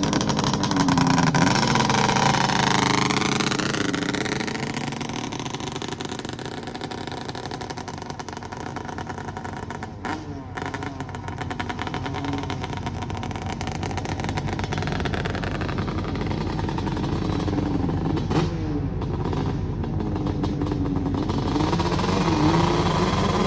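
Methanol-fuelled Banshee drag machine's engine revving, its pitch sweeping up and down repeatedly. It gets quieter through the middle and louder again near the end.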